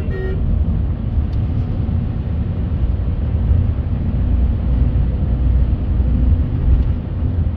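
Steady low rumble of a car on the move, road and engine noise without any clear change in speed.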